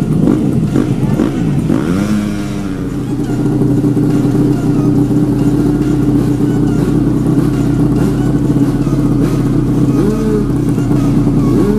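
Off-road racing motorcycle engines running hard, with a few short rises in pitch as a bike revs up, about two seconds in and again near the end.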